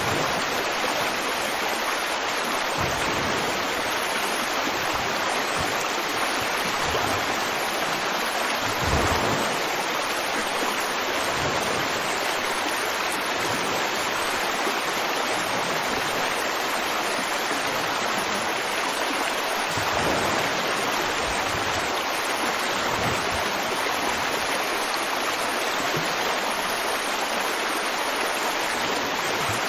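River water flowing steadily over rocks: a continuous rushing with now and then a brief, slightly louder splash, one about nine seconds in.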